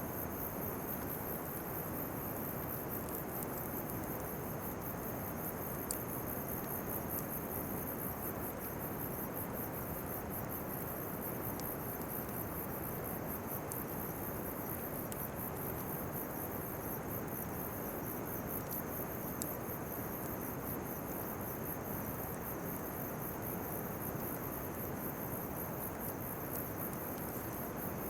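Insects chirping in fast, steady pulses over a steady low rushing noise from a bonfire of weeds and chestnut burrs, with an occasional sharp pop.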